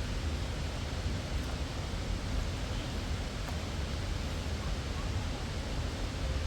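Steady rushing of a fast-flowing river, an even noise with no pauses, with a couple of faint ticks on top.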